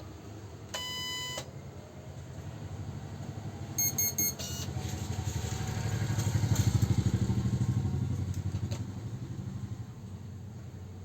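Epson PLQ-20 dot-matrix passbook printer beeping once, then three short beeps, followed by its mechanism running with a fast, rhythmic chatter that swells for several seconds and then fades.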